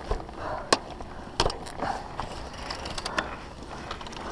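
Mountain bike clicking and clattering, with a few sharp knocks, the loudest a little under a second in.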